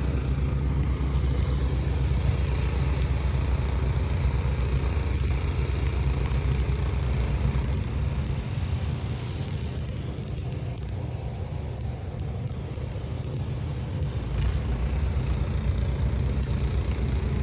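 Steady low rumble of a car driving, engine and road noise together, easing off a little midway and building again near the end.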